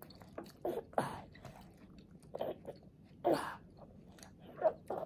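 A toddler chewing a mouthful of food, with short wet mouth sounds spaced irregularly, the loudest a little past the middle.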